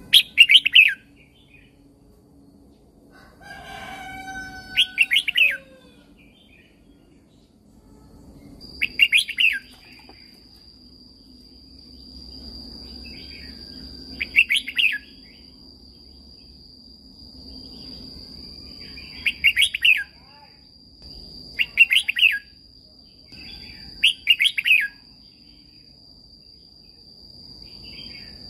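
Red-whiskered bulbul singing short, quick warbled phrases, about seven of them a few seconds apart. A steady high-pitched whine runs under the song from about eight seconds in.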